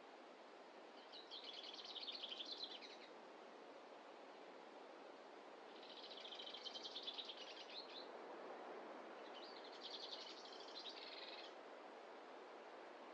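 A small songbird singing three times, each a rapid run of high notes lasting about two seconds, faint over a steady soft hiss.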